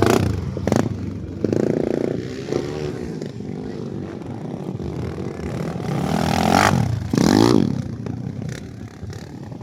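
Underbone motocross motorcycles racing, engines revving, with a louder bike sweeping past about six to seven and a half seconds in.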